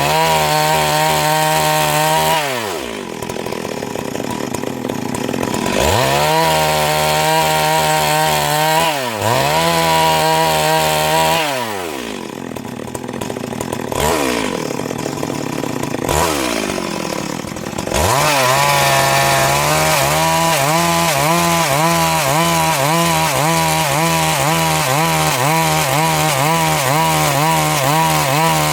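Stihl MS 382 chainsaw ripping a log into boards. Its engine pitch drops and climbs back several times as the throttle is eased and reopened, then holds high and steady through the last ten seconds of the cut.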